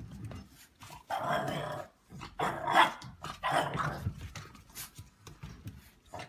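A dog vocalising in several short, rough bursts with pauses between them, the first and longest lasting nearly a second.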